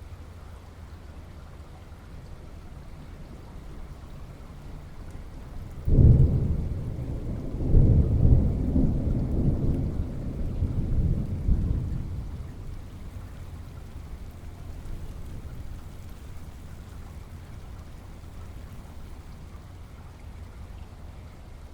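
Steady rain with a thunderclap: a sudden deep boom about six seconds in, a second surge a couple of seconds later, then rolling rumble that dies back into the rain after a few seconds.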